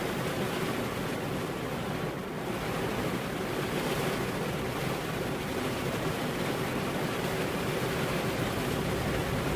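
Steady heavy rain: an even, dense hiss with no thunder, dipping slightly for a moment about two seconds in.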